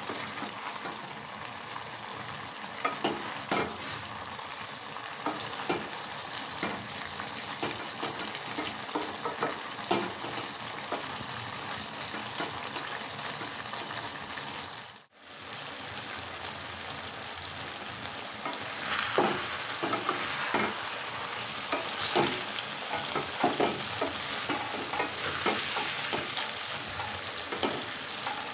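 Small fish and vegetables sizzling in oil in a wok, with scattered crackling pops. In the latter part a spatula stirs and scrapes the pan, adding frequent clicks and scrapes.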